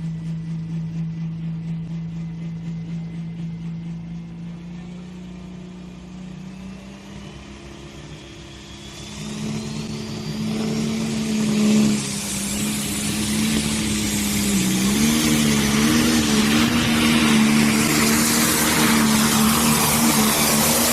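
Pro stock pulling tractor's 680-cubic-inch single-turbo diesel engine running hard on a pull. About nine seconds in it climbs in pitch with a rising turbo whine and grows much louder, then holds at high revs with a brief waver in pitch.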